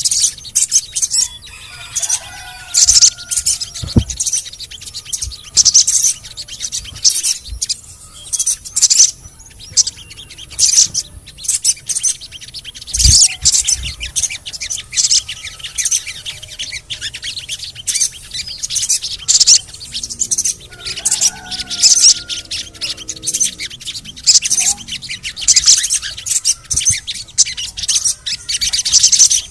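Sogon songbird calling in a rapid, continuous run of sharp, high chips (the 'cret-cretan' chatter), broken twice by short lower, wavering whistled phrases.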